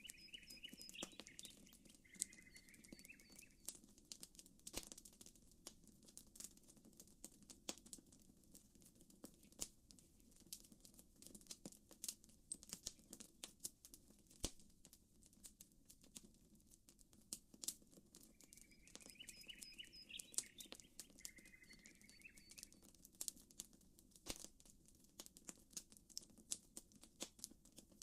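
Faint campfire crackling, a steady stream of small sharp pops, over a low wash of gently lapping lake water. A bird chirps briefly near the start and again about two-thirds of the way through.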